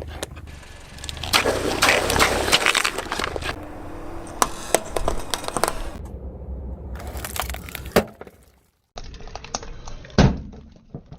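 Brittle objects cracking and crunching as they are crushed under a car tyre, in several short cuts. Dense crackling runs for the first half, with single sharp cracks; the loudest crack comes about ten seconds in.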